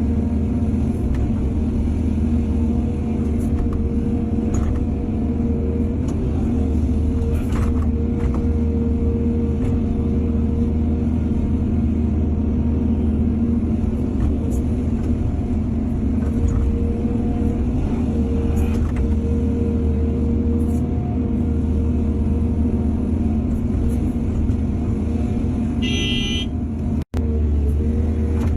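Heavy diesel engine of an excavator running steadily under load, with a deep hum and a few light knocks. Near the end comes a short high-pitched tone, and the sound drops out for an instant.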